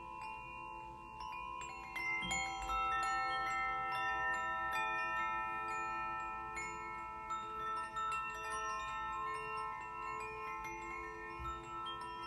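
Struck metal instruments, steel tongue drum notes and small bells, ringing in overlapping tones. A new note is struck every second or so over a couple of steady held tones, with small high tinkles above.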